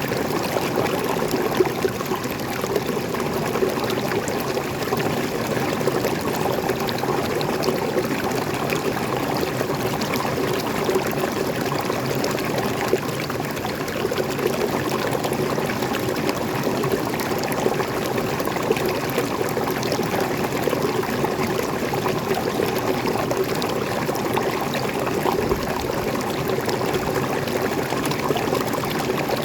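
Freshwater waterfall in a forest stream, water pouring and splashing steadily, with a dense patter of small splashes.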